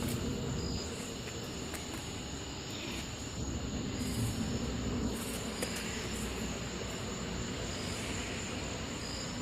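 Steady outdoor background noise: a low rumble under a constant high-pitched hum.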